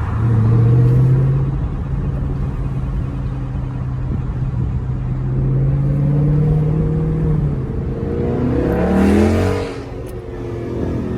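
Dodge 392 HEMI V8 exhaust pulling under load, its note climbing slowly for several seconds. Near the end the revs rise sharply, then the sound drops off suddenly, as at a gear change or lifting off the throttle.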